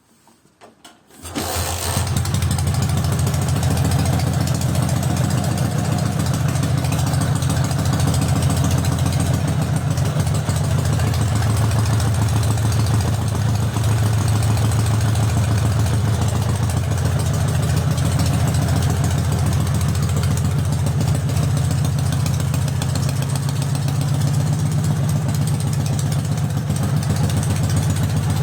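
Dnepr MT motorcycle's flat-twin engine starting about a second in and then running steadily at a fast idle. This is its first run after a rebuild with trimmed cylinders and reworked ports.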